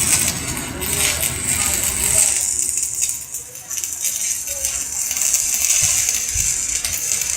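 Electric arc welding with stick electrodes: the arc sizzles and crackles steadily as a bead is laid.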